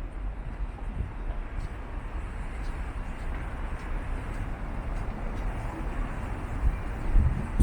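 City street ambience: steady hum of road traffic, with a low rumble that swells near the end as a vehicle draws close.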